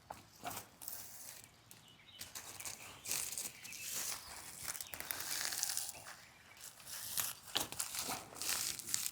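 Dry kindling and tinder crackling and rustling, with many sharp little snaps.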